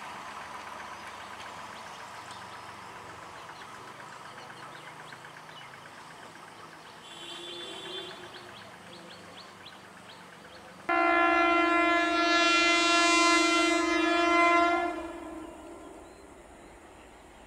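ICF-Medha electric multiple unit (EMU) local train running on curved track, its wheel rumble and clatter slowly fading as it moves away, with a short horn sound about 7 s in. Then, after a cut, a long, loud, steady EMU horn blast from an approaching train, lasting about four seconds from about 11 s in.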